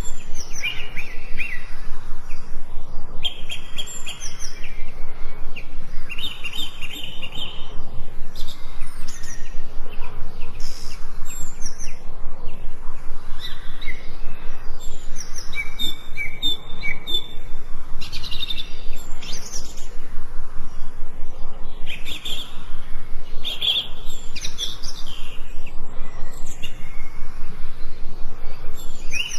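Forest songbirds chirping and singing, with many short calls and trills overlapping throughout, over a steady faint background hiss.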